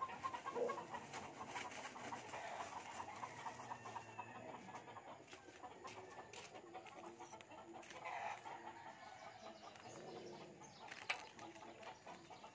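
Faint bird calls in the background, with a sharp click near the end.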